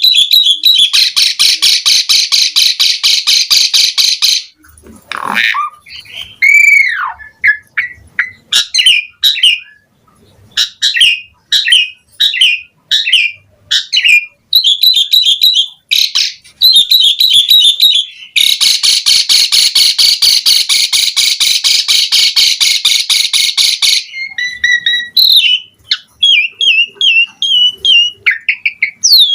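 Asian pied starling singing a varied song. Long, fast, harsh rattles come near the start and again past the middle, with whistled glides, some falling, and short chattering notes between them.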